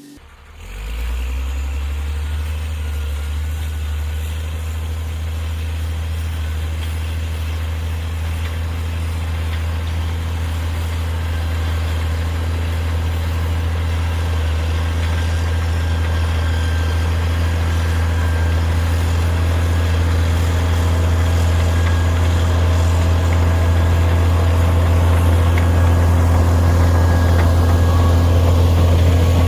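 Caterpillar D6D bulldozer's diesel engine running steadily with a deep, even hum. It cuts in abruptly about half a second in and slowly grows louder.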